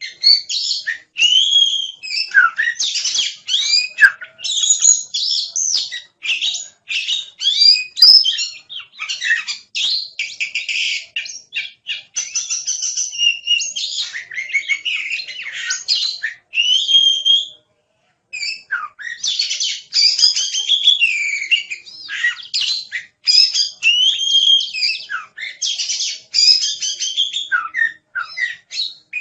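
Oriental magpie-robin (kacer) singing at full tilt: a rapid, unbroken run of varied whistles, chirps and trills, with one short break about two-thirds of the way through.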